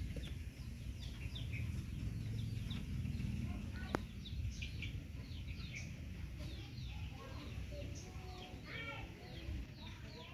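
Birds chirping in the background: many short, quick falling chirps repeating throughout, with some lower calls near the end, over a low steady rumble. A single sharp click about four seconds in.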